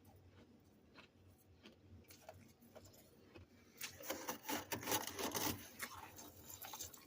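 Freezer frost crunching: a few faint crackles, then a dense run of crisp crackling crunches for about two and a half seconds from just past the middle.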